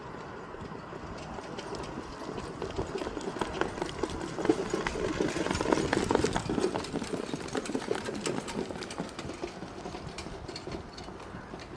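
Hoofbeats of two harness-racing horses pulling sulkies, a fast clatter of hooves that grows louder to a peak about halfway through and then fades as they go by.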